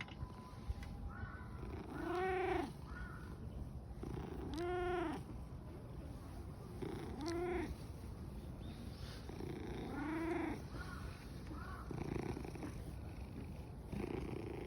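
A stray cat purring loudly with a steady low rumble, the sign of a content cat. Every few seconds it gives a short meow that rises and falls in pitch.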